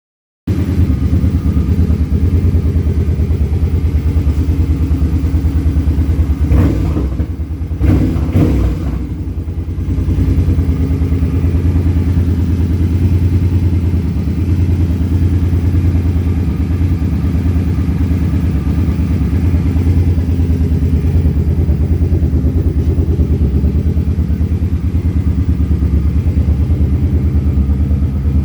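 2009 Suzuki Boulevard M50's fuel-injected V-twin idling steadily through its exhaust, with a few knocks about seven to nine seconds in. The idle is even, with no burbling or puffing at the low end, its fuel injectors freshly cleaned.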